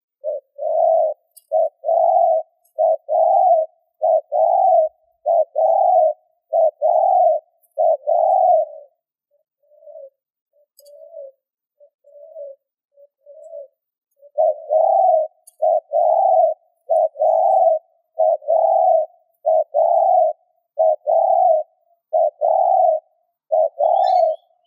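Spotted dove cooing in a rapid series of short coos (the 'gù' call). A few seconds of soft, scattered coos come in the middle before the quick, loud cooing resumes.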